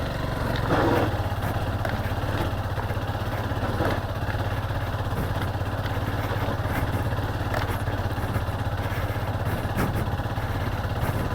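Motorcycle engine running steadily at low revs while ridden slowly on a rough dirt road, with a few faint knocks.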